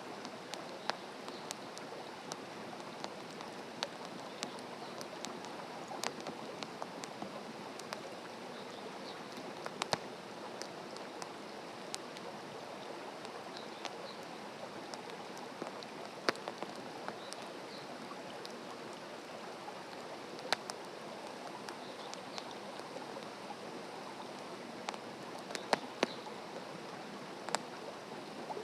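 Open wood campfire crackling: a steady hiss of burning with scattered sharp pops, a few coming close together near the end.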